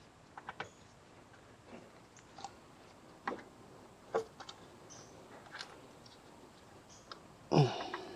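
Scattered light clicks and taps of tools and parts being handled during an oil change, with one louder, brief scraping sound near the end that falls in pitch.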